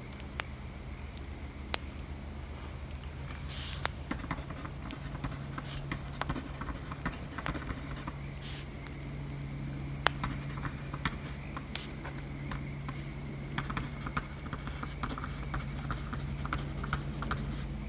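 Crackling bonfire with sharp pops every few seconds over a low steady rumble, mixed with pencil or pen writing on paper that comes as runs of quick small scratches and taps.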